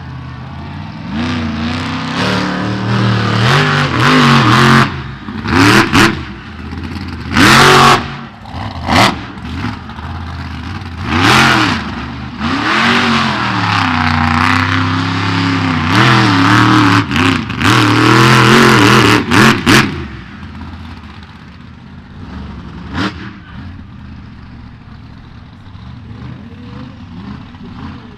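Monster truck engine revving hard again and again, its pitch swooping up and down, with several short, very loud bursts cutting through. About twenty seconds in it drops back to a quieter, steadier running.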